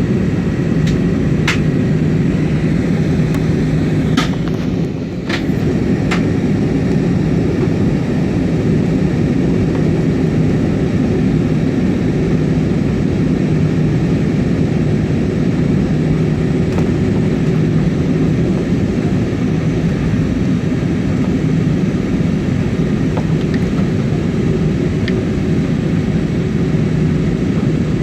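Steady roar of engines and airflow inside an Airbus A320 airliner's cabin during the descent to landing, with a low hum throughout. A few sharp clicks come in the first six seconds, and the noise dips briefly about five seconds in.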